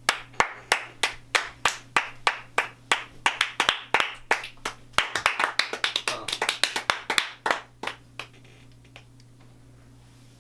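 A few people clapping, applause made of sharp, separate claps. It starts at once, grows denser in the middle and thins out, dying away about eight seconds in.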